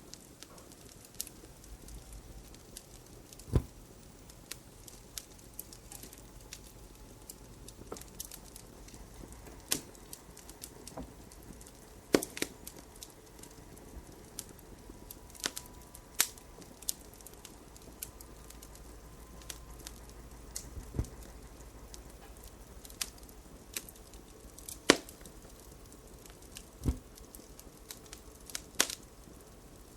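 Wood fire crackling: irregular sharp snaps and pops, a few louder than the rest, over a low steady hiss.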